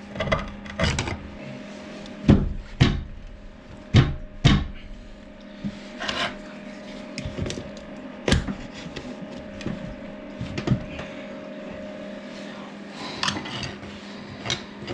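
Irregular sharp knocks and scrapes of work on a ceramic toilet pan that is cemented to the floor, the loudest clustered in the first few seconds, over a steady low hum.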